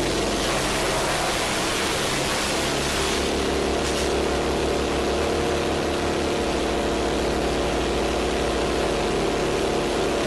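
A heavy machine's engine running steadily under loud, even noise, its tone shifting about three seconds in and again about six seconds in.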